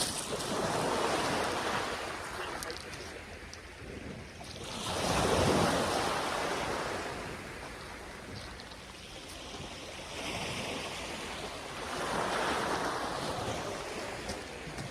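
Surf breaking and washing up a sandy beach, three waves rising and falling, the loudest about halfway through.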